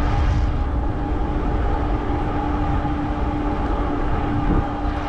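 Riding noise on a fat-tire e-bike: wind rumbling on the microphone with a steady whine running under it.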